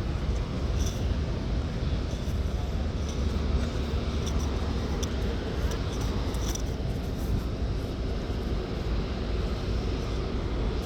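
Steady low rumble of a car ferry under way, heard on its open upper deck, with wind noise over the drone of the ship.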